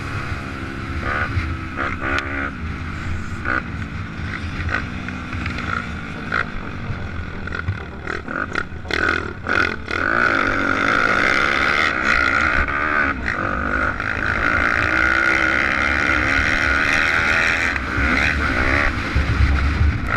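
Pit bike engines running and revving, their pitch rising and falling as the throttle opens and closes.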